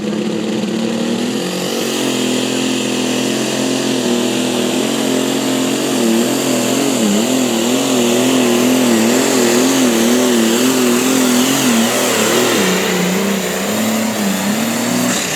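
Pulling vehicle's engine running hard at high revs under load. Its pitch wobbles rapidly up and down through the middle of the run, then drops lower near the end.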